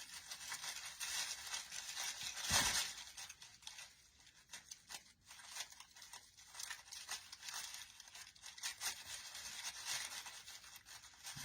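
Rustling and crinkling of artificial pine and leaf picks being handled and bent into place on a swag, with one louder rustle about two and a half seconds in.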